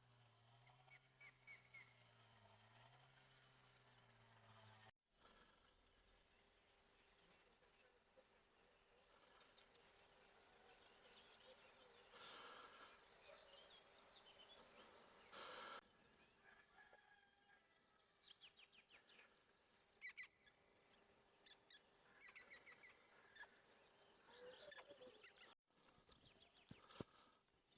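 Faint countryside ambience: a steady high insect chirring with scattered short bird chirps and trills. A low wavering hum runs for the first few seconds.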